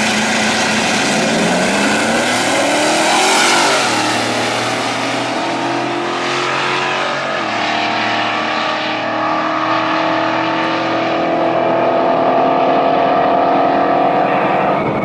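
A drag-racing truck's engine accelerating hard down the strip. It climbs in pitch, drops at gear changes about four and seven and a half seconds in, then holds high revs.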